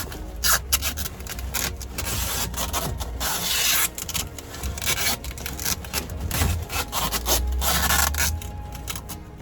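Irregular rubbing and rasping: material being scraped or cut by hand in short strokes, with two longer stretches of steady scraping.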